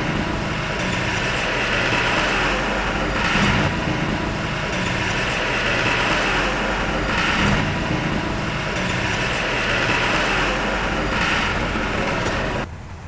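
Heavy diesel earthmoving machine's engine running under load, swelling louder about every four seconds. The sound drops off abruptly near the end.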